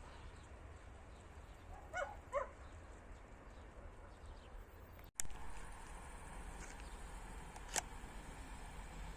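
Quiet open-air ambience with two short animal calls, like distant barks, about two seconds in. About five seconds in the sound drops out for an instant and comes back slightly louder, and a single sharp click follows near the end.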